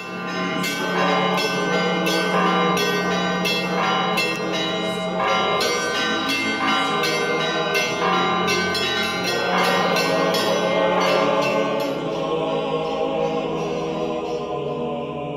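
Church bells ringing a fast peal of many overlapping strokes over a steady low hum. The strokes thin out and fade over the last few seconds.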